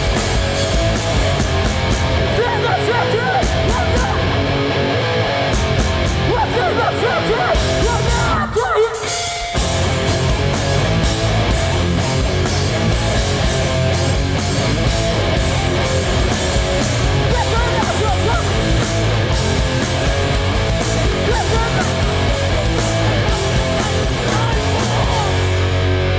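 Live hardcore punk band playing loud: distorted electric guitars, bass and drums, with yelled vocals. The music briefly stops about nine seconds in, then kicks back in.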